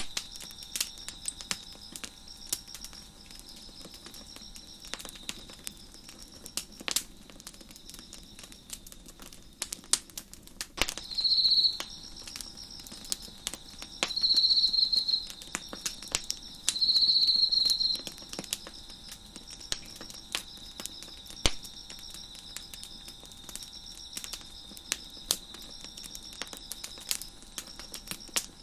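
Wood fire crackling with scattered sharp pops, over crickets chirping steadily in a pulsing rhythm. Near the middle a closer cricket trills loudly three times, each trill lasting about a second.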